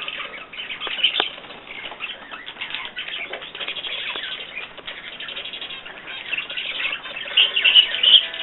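Small pet birds chirping and trilling, with bursts of wing fluttering and sharp clicks. The chirping grows louder near the end.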